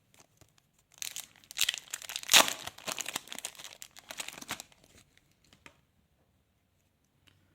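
A 2025 NRL Traders trading-card pack wrapper being torn open and crinkled, from about a second in until about five seconds in.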